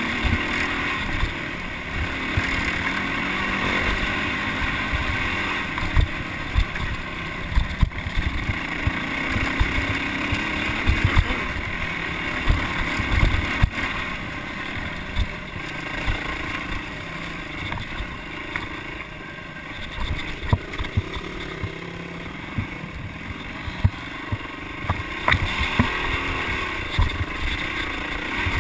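Yamaha dirt bike engine running as the bike rides a rough dirt trail, its pitch rising and falling with the throttle, with frequent short knocks from the bumpy ground.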